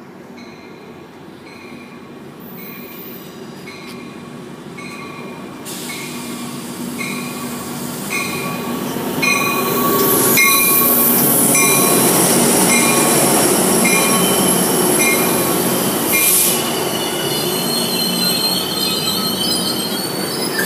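Amtrak California passenger train pulling into the station: the diesel locomotive grows louder as it approaches and passes about halfway through, its bell ringing steadily about once every 0.7 s. The bilevel passenger cars then roll by with a high squeal from the wheels and brakes.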